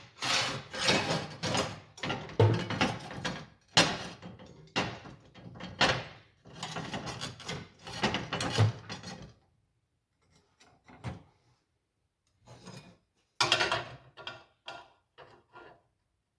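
Hand scrubbing on the car's metal with a brush: a run of rough back-and-forth strokes, about one a second, for roughly nine seconds, then a pause with a few scattered scrapes and knocks.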